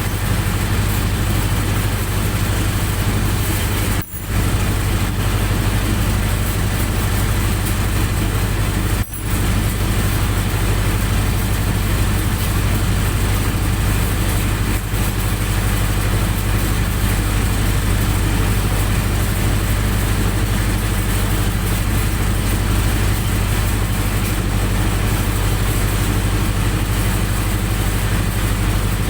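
Generator set's engine running steadily at a constant speed, with two brief dips in the sound about four and nine seconds in.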